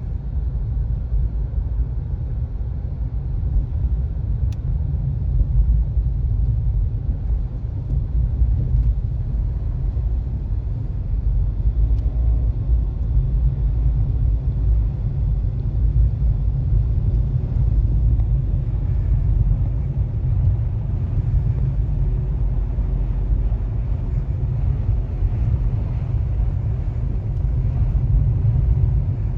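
Steady low rumble of a car's tyre and engine noise while driving at moderate speed on a snowy highway, heard from inside the cabin.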